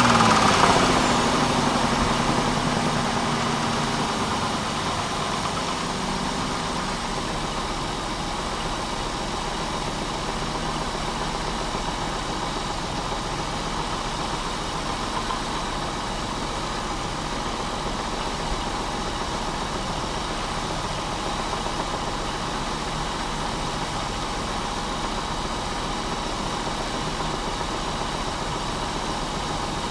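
Pontiac Bonneville's 3.8 V6 dropping back from a rev and settling into a steady idle over the first few seconds. The engine is blown, with a rod knock.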